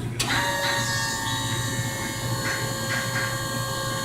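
A machine switches on with a sharp click and runs with a steady whine of several high tones over a low hum.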